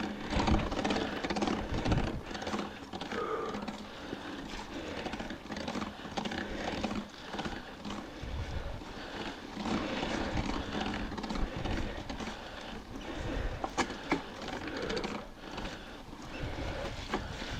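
Mountain biker panting hard on a long, steep climb. Mixed in is the noise of a rain-soaked bike drivetrain that sounds rough, which the rider puts down to riding in the rain and doubts he lubed the chain. A few sharp clicks come near the end.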